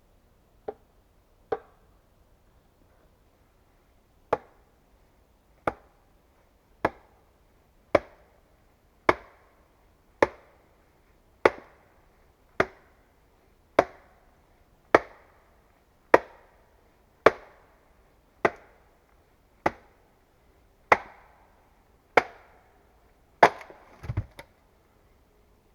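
A tool striking wood in a steady rhythm: about nineteen sharp blows roughly one a second, the first few softer, followed by a quick cluster of smaller knocks near the end.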